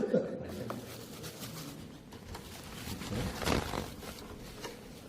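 Faint voices of people in a small room, with a brief louder bit of talk about three and a half seconds in.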